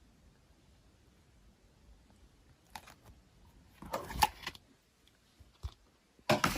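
Slime being handled: short, soft clicks and squelchy pops in a few bursts, the loudest about four seconds in and near the end.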